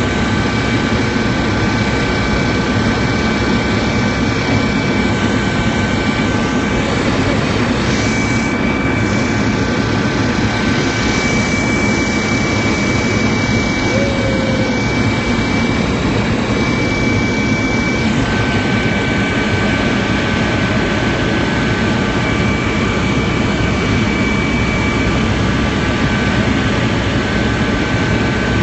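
Helicopter in flight: steady turbine engine and rotor noise with a constant high-pitched whine.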